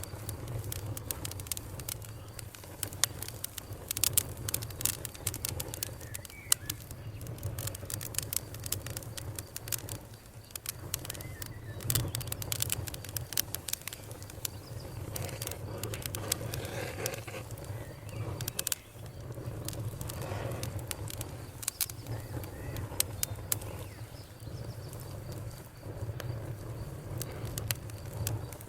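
Bonfire crackling, with frequent irregular sharp snaps and pops over a low steady rumble of the burning wood. Crickets chirp faintly in the background.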